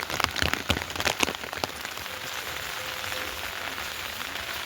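Rain falling, with heavy drops landing in sharp taps for the first second and a half or so, then settling into a steady, even hiss.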